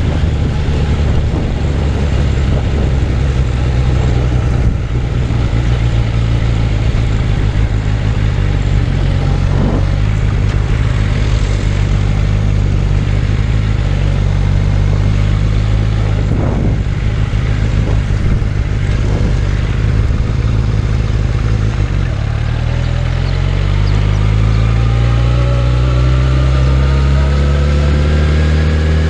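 Suzuki Bandit 600's inline-four engine running steadily while riding, then about three-quarters of the way through its note drops and climbs steadily as the bike accelerates.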